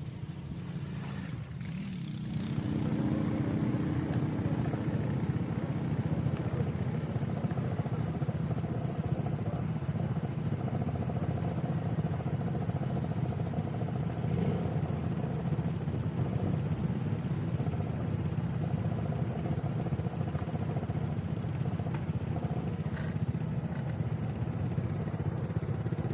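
Honda PCX160 scooter's single-cylinder engine running while riding, getting louder about two and a half seconds in as it pulls away, then holding a steady cruising note.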